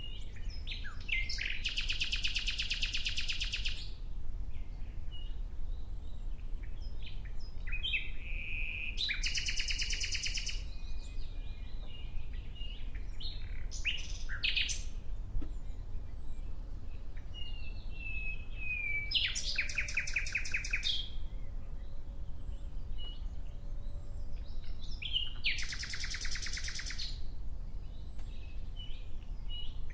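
Nightingale singing: four loud phrases of rapid-fire repeated notes, each a second or two long, with short whistles and single notes in the gaps between them. A steady low rumble runs underneath.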